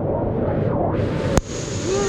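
River water rushing, heard muffled at first, then a sharp click about a second and a half in, after which the water and wind noise sound open and hissy.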